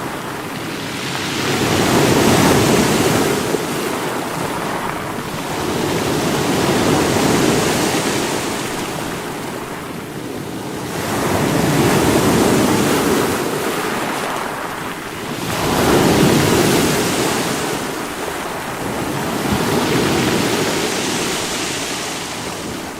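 Sea waves breaking against rocks, a continuous rushing surf that swells and falls back about every four to five seconds, five surges in all.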